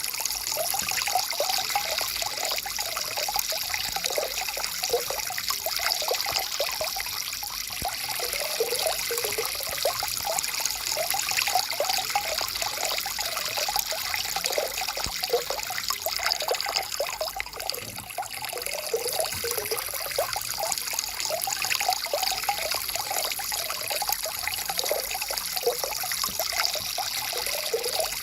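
Small forest stream flowing and trickling over rocks, a steady rush with continual bubbling and gurgling.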